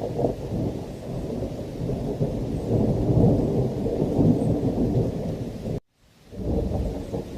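Thunder over heavy rain, a deep rumble that swells to its loudest about three to four seconds in. About six seconds in, the whole sound cuts out for a fraction of a second, then comes back.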